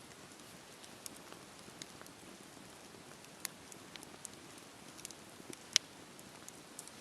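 Bonfire crackling: a steady soft hiss with scattered sharp pops, one much louder than the rest near the end.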